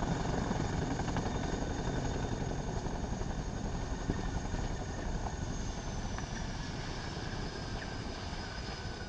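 Helicopter running on the ground while caught in ground resonance, a dense steady rotor and engine noise. A high whine slowly falls in pitch from about halfway through.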